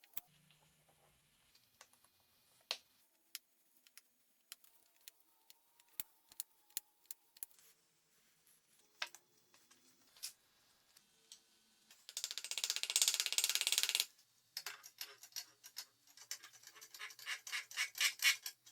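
Metal hand tools being handled: scattered sharp clicks and taps, then a dense two-second run of rapid clicking past the middle and a spell of evenly pulsed clicking near the end.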